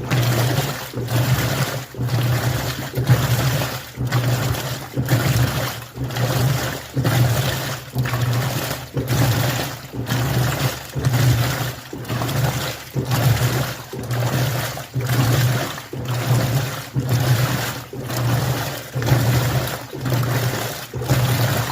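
Midea 13 kg washing machine in its wash cycle, churning water and clothes: a low motor hum and water sloshing that swell and fall about once a second.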